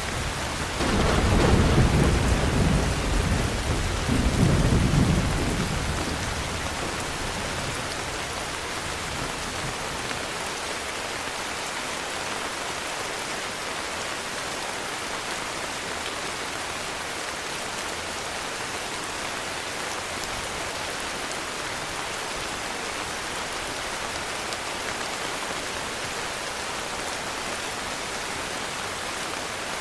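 Heavy rain hissing steadily, with a roll of thunder in the first few seconds that rumbles, swells a second time about four seconds in, and dies away, leaving only the rain.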